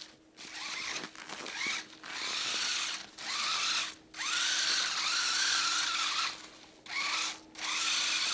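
Radio-controlled car's motor whining in about seven short throttle bursts, the pitch rising at the start of each burst and then holding; the longest burst lasts about two seconds in the middle, as the car is driven on snow.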